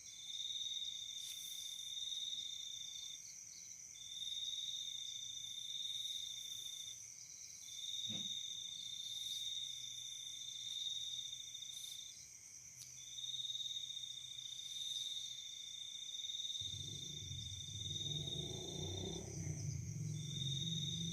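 Night insects calling: a steady high buzz with a second, lower pitched trill in long runs of a few seconds, each broken by a short pause. About three-quarters of the way through, a low droning, music-like sound comes in under them.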